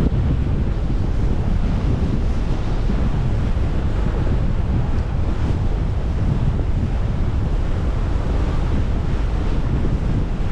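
Steady wind buffeting the microphone over rushing water, a deep even rumble with no distinct events.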